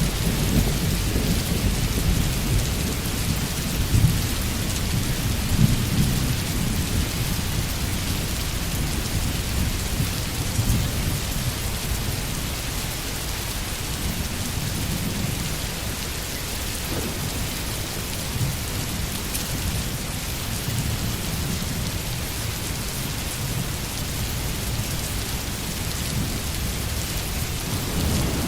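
Steady rain hissing with rolling thunder: low rumbles that swell and fade, strongest in the first few seconds, returning around the middle and again near the end.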